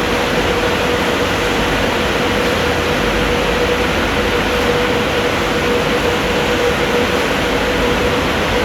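Kleindienst automatic car wash machine running: a steady rushing noise with a constant hum underneath.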